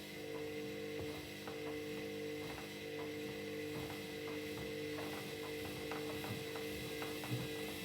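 Hoover One Touch washing machine running on an unbalanced load, with a steady motor whine and irregular light clicks and knocks from the drum.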